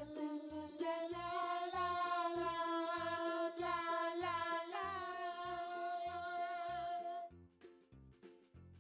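Background music: a soft wordless sung or hummed melody with long held notes over a faint regular beat, cutting off about seven seconds in.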